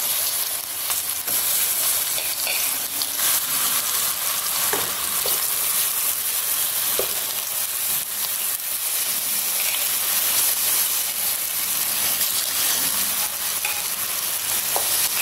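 Slices of ripe nendran banana frying in hot ghee in a pan: a steady sizzle.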